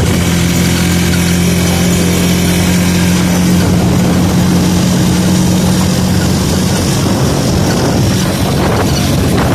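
Motorcycle engine running steadily while riding along a road, with a constant rush of wind and road noise.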